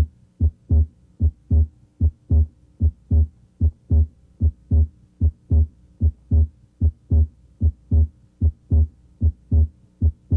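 Normal heart sounds at the left third interspace: a steady lub-dub, S1 then S2 about a third of a second later, repeating about 75 times a minute. The patient is breathing deeply, and at this spot both components of S2, aortic A2 and pulmonic P2, may be heard.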